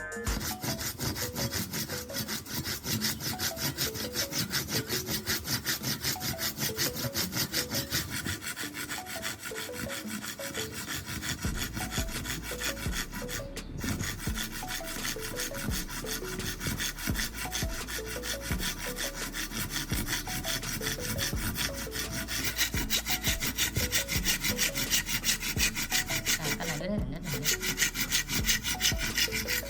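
Hand saw cutting through wood in quick, steady back-and-forth strokes, stopping briefly twice.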